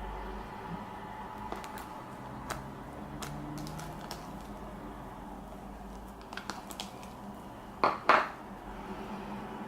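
Shaving-gel slime being mixed in a container: light clicks and taps of a utensil against the container, with two louder short noisy sounds close together about eight seconds in, over a steady low hum.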